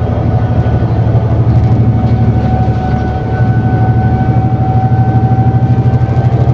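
Diesel engine and Voith automatic drivetrain of an ADL Enviro400 City double-decker bus pulling hard, heard from on board. It is a low pulsing engine drone under a steady high whine. The loudness dips briefly about three seconds in and then comes back.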